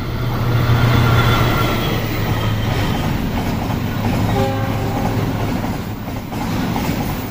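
Diesel locomotive hauling a freight train past: the engine's low hum is loudest about a second in, then comes the steady rumble and clatter of the wagons on the rails. A short tone sounds about halfway through.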